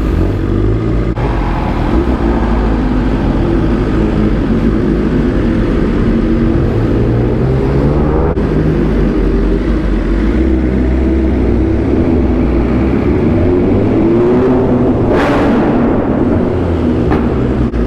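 BMW S1000RR inline-four sportbike engine running at low speed, its pitch rising and falling as the bike rolls along. A brief rushing hiss comes about fifteen seconds in.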